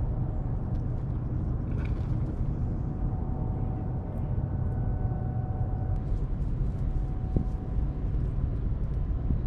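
Steady low outdoor rumble with a faint steady hum above it, and a few faint ticks.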